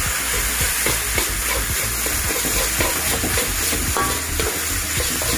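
Instant noodles and scrambled egg sizzling in a hot oiled wok as they are stir-fried. A steady frying hiss runs under repeated scrapes and knocks against the pan.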